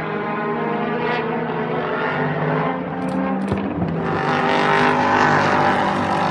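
Racing car engines running at speed on a circuit, one growing louder about two-thirds of the way through as it comes closer.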